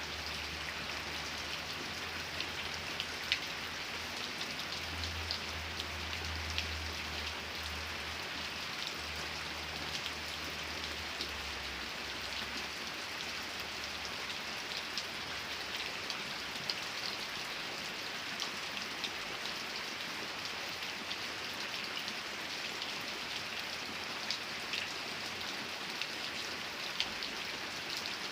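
Steady rain falling, with individual drops ticking now and then. A faint low hum sits underneath for the first twelve seconds or so, then fades.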